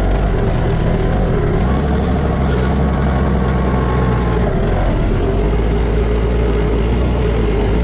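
Tractor engine running steadily, heard from the driver's seat.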